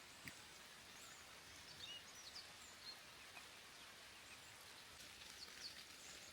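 Quiet forest ambience: a faint steady hiss with scattered short, high bird chirps and a small click shortly after the start.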